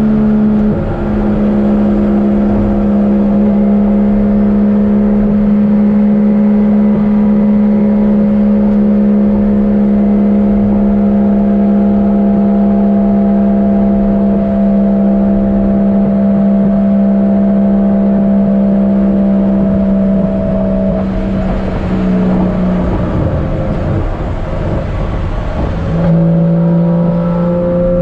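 Swapped 1JZ-GTE VVTi turbo straight-six in a Nissan 240SX running under way at a steady, slowly rising pitch. About three-quarters of the way through the note breaks off, with a rush of hiss, then picks up again lower and climbs toward the end.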